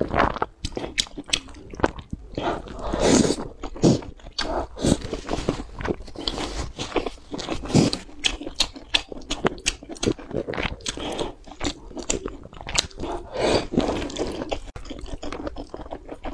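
Close-miked ASMR eating: a person chewing and biting mouthfuls of spicy stew with noodles, tofu and meat, with many irregular wet mouth clicks and smacks.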